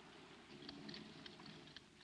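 Faint, irregular clicks and ticks over a low hiss, starting about half a second in.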